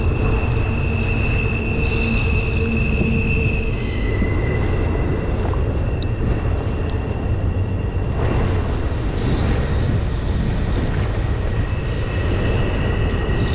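Double-stack intermodal freight train rolling past: a heavy, steady rumble with high-pitched wheel squeal that drops in pitch about four seconds in.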